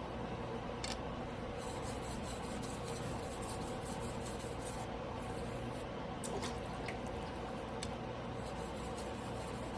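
A steel knife blade rubbing on a wet sharpening stone, a steady wet scraping over a constant low hum, with a few small sharp clicks.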